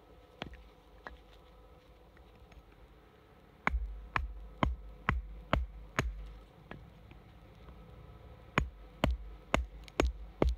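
Sharp knocks of wood being struck, about two a second, in two runs of five or six blows each, as when splitting and shaping wooden tent pegs by hand.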